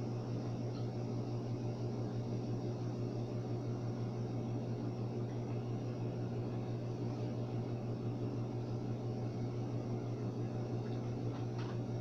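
A steady low hum under an even hiss that does not change, with no distinct events.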